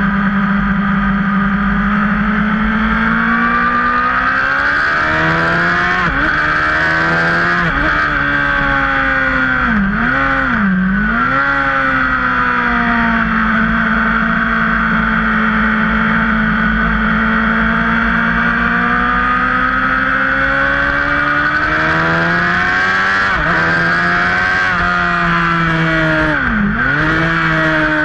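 Yamaha sport motorcycle engine running hard around a race circuit, its pitch sagging and climbing with the throttle. Twice, about ten seconds in and near the end, the revs drop sharply and pick up again, as with a quick lift or downshift. The whole is heard from on board, with steady wind rush.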